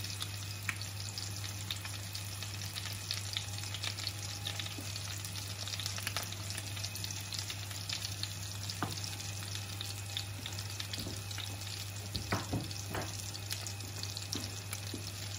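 Breaded pork cutlets frying in oil in a pan: a steady sizzle full of small crackles, with a few louder pops near the end, over a low steady hum.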